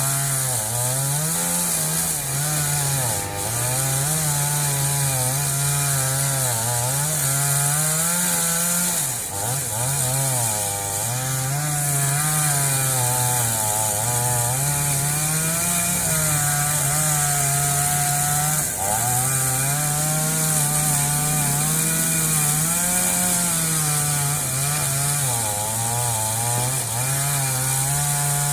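Two-stroke chainsaw cutting through a fallen tree, running without a break, its engine pitch rising and sagging every few seconds as the chain bites into the wood and frees up.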